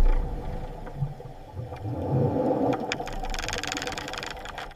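Low rumbling drone with a steady hum, with a hiss joining about three and a half seconds in; it cuts off abruptly at the end.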